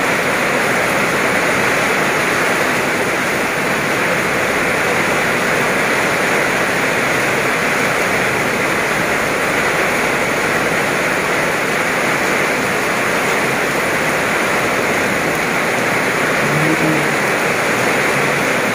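Heavy tropical downpour: a steady, loud, even hiss of rain pouring onto the ground, puddles and road.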